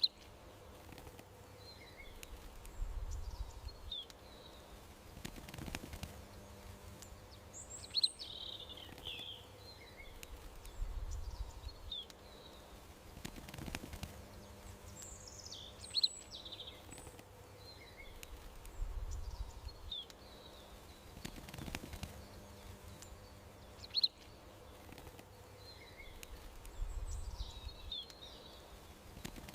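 Small birds chirping and calling in short, high bursts over a steady background hum. The same pattern of calls repeats about every eight seconds, as from a looped nature-sounds track.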